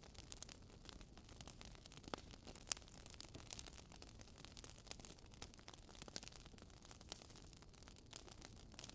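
Wood fire crackling in a fireplace: faint, irregular snaps and pops over a low steady hiss, with a couple of sharper pops about two to three seconds in.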